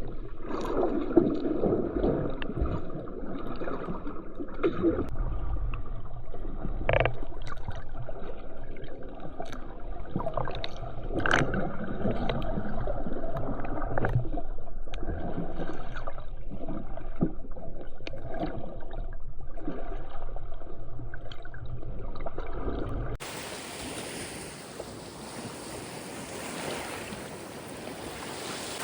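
Muffled water sloshing and gurgling, with frequent small knocks and splashes. About 23 seconds in it cuts to steady ocean surf washing ashore, with wind on the microphone.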